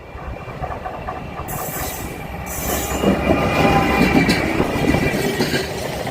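A train passing close by, growing louder over the first three seconds, with its wheels squealing in thin, steady high tones and clattering over the rail joints.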